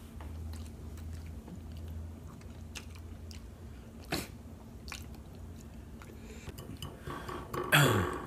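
People chewing mouthfuls of noodles, with scattered small clicks of forks on plates and a sharper click about four seconds in. Near the end comes a short, loud vocal sound that falls in pitch.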